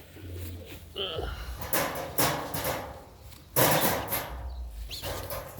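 Birds calling in short calls, with cooing, among rustling bursts. The loudest rustle comes about three and a half seconds in.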